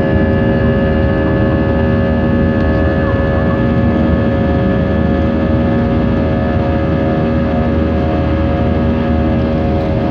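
Airbus A320's jet engines running steadily, with a constant low rumble and several steady whining tones that do not rise or fall.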